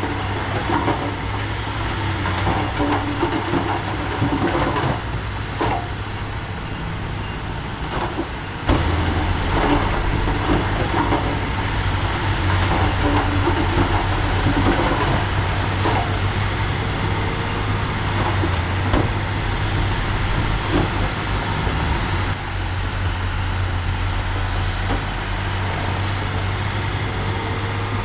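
Heavy diesel earthmoving machinery, most likely a bulldozer, running steadily with scattered metallic clanks. The engine gets louder about a third of the way in.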